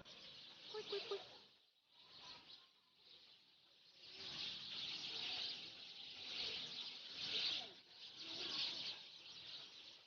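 Faint, high-pitched chorus of animal calls, swelling and fading in surges every second or so, with a quieter dip about two seconds in.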